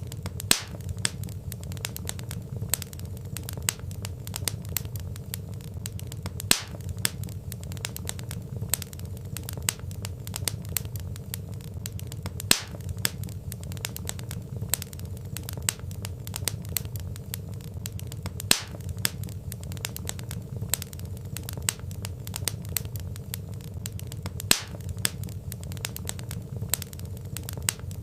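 Wood fire crackling: a steady low rumble of burning logs with constant small snaps and a louder pop about every six seconds.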